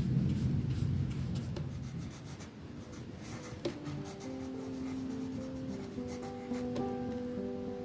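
Pen or pencil strokes scratching on paper, a run of short quick strokes. A low rumble fades out over the first two seconds, and soft background music with plucked sustained notes comes in about halfway.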